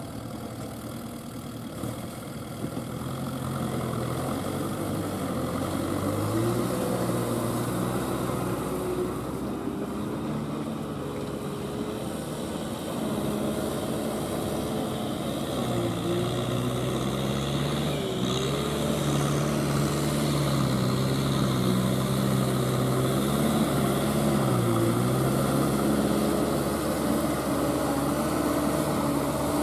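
Kubota M6040SU tractor's four-cylinder diesel engine working under load while tilling a wet, muddy paddy field. Its pitch sags and recovers several times as the load changes. It grows louder over the first six seconds, then runs steadily.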